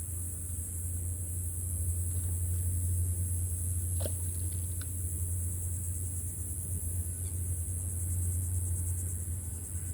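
Steady low rumble with a constant high hiss, and one short chirp about four seconds in.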